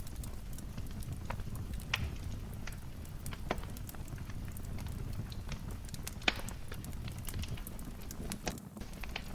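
Wood fire crackling in a fireplace: a steady low rumble with irregular sharp pops and snaps, the loudest pop about six seconds in.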